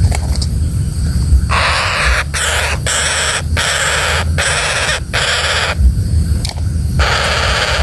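Woodpecker giving harsh, rasping calls in a rapid series of bursts, starting about a second and a half in and stopping near the end.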